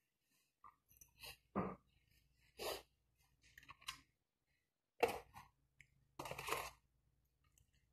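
Short, separate mouth sounds of people eating fried chicken: chewing, lip smacks and clicks, with a few brief breaths, about eight in all.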